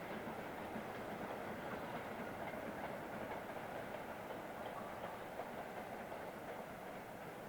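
Train running along the track, a steady rumble of wheels on rails that eases slightly near the end.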